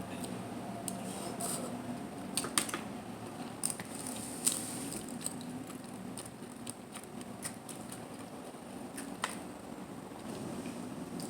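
Close-miked eating of mussels and clams: chewing with scattered sharp clicks and ticks, the loudest about two and a half and four and a half seconds in, over a steady low hum.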